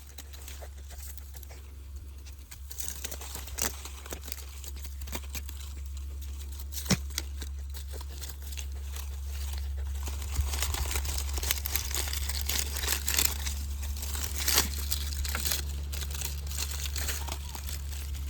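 Dry leaves crackling and crunching in irregular bursts as a fox plays in them, over a steady low hum.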